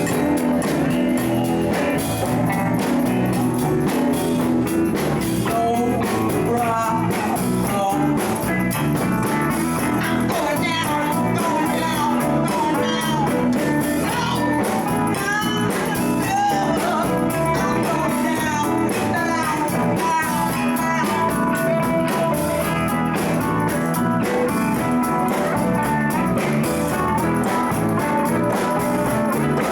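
Live band playing a blues-rock jam: guitar with bass and drums, loud and continuous.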